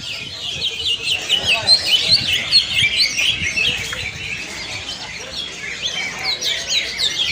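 Several caged contest songbirds singing at once, a dense overlapping stream of rapid high chirps and short sweeping notes.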